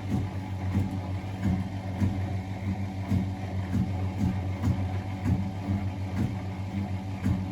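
Miele Novotronic W921 washing machine running: a steady motor hum with a regular thump about twice a second.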